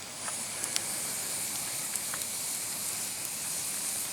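Campfire burning: a steady high hiss from the wood, with scattered pops and crackles.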